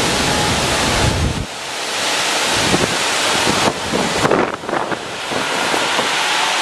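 Strong gusting wind and driving rain of a tropical-storm rain band, as a steady loud rush. Wind buffets the microphone with a heavy rumble for the first second and a half.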